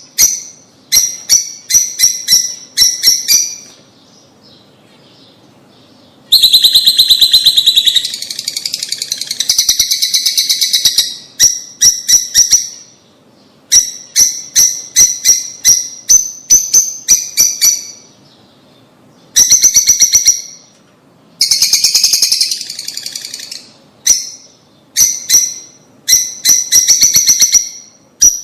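Birds chirping and chattering in quick runs of high-pitched notes, in bursts of a few seconds with short pauses between; the densest, loudest chattering comes about a quarter of the way in and again about three-quarters through.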